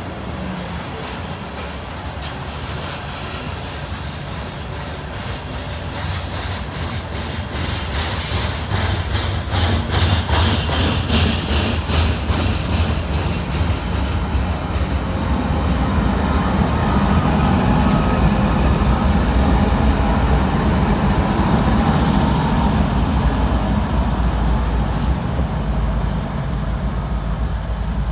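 Loaded BNSF coal train on the move: a steady rumble of wheels on rail with a run of rapid clicks about a third of the way in, then a heavier low rumble that builds past the halfway point.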